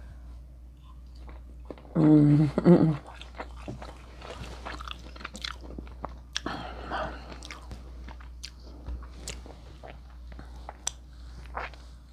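Close-miked chewing of a steak-and-vegetable kebab: soft crunches, wet mouth clicks and smacks. A brief loud vocal sound from the eater comes about two seconds in.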